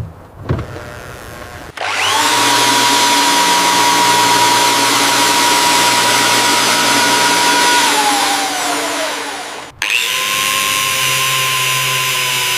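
Handheld electric power tool running under load: a steady whine over a rough grinding hiss. It winds down and stops near the tenth second, then starts up again straight away.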